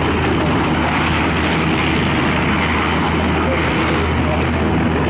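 Army helicopter in flight, its rotor and engine giving a loud, steady, continuous noise with a low hum underneath.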